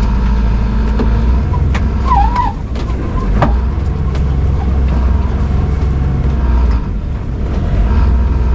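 Sailboat's auxiliary engine running hard, a steady low drone that rises and falls in level a few times, mixed with strong wind rush on the microphone as the boat works its keel off a shallow bottom.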